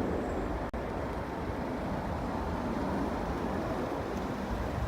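Steady outdoor rumble of vehicle noise and wind, with a brief cut about three-quarters of a second in.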